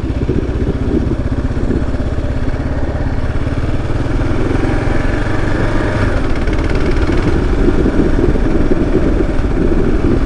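Single-cylinder 650 cc dual-sport motorcycle engine running at low speed, growing a little fuller and louder from about halfway through.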